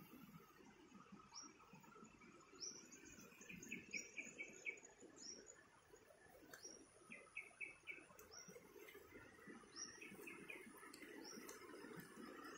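Birds calling faintly: a short, high, falling chirp repeated every second or so, and now and then a quick run of three to five lower notes. Under them, the soft rustle of footsteps through grass and ferns.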